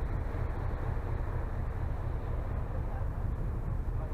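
Steady low rumble of a ferry under way at sea, with no distinct events.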